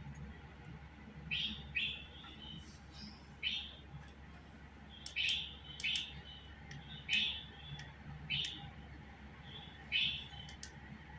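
Pet budgerigar giving short, sharp chirps, one about every second, with brief pauses between them.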